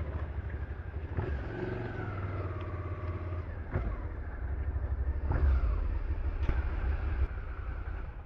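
Motorcycle engine running under way, with a low rumble and an engine note that rises and falls a few times as the throttle changes.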